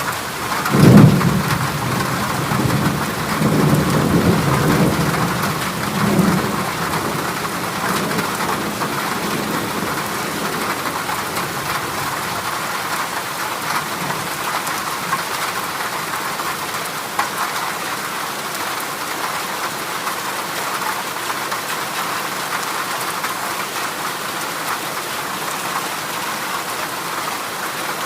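Heavy rain drumming steadily on a corrugated zinc roof. A thunderclap hits about a second in and rumbles low for several seconds before fading, leaving only the steady patter.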